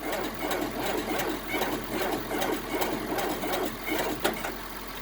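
John Deere 4250's diesel engine being turned over slowly by its starter, about three beats a second, not yet firing: a cold engine cranking sluggishly on a weak battery.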